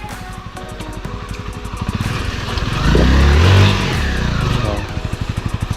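A motorcycle passing close by: its engine note swells and rises, is loudest about three and a half seconds in, then falls away. Background music with a steady beat runs underneath.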